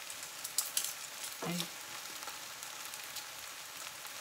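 Chopped eggplant frying in a pan: a steady sizzling hiss with scattered crackles.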